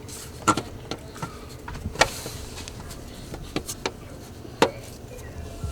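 Scattered sharp metal clinks and knocks, about five, as a replacement alternator is worked into its mounting slot on a 2003 Ford Explorer engine.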